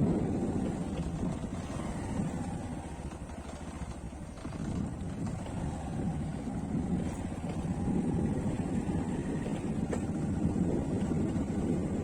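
A motor vehicle running along while wind rushes over the microphone, a fluctuating low rumbling noise.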